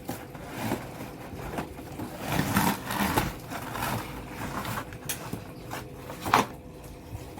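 Packaging being handled as a toy remote-control car and its parts are taken out of the box: irregular rustling and knocking, with a sharp click about six seconds in.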